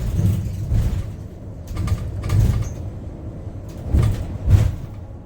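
Cabin of a Yutong U12 city bus on the move: a low rumble from the ride, with a few knocks and rattles from the body about two seconds in and again near four seconds.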